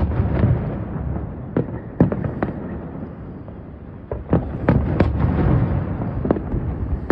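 Fireworks bursting overhead: a string of sharp bangs over a low rolling rumble, coming thicker and faster from about four seconds in.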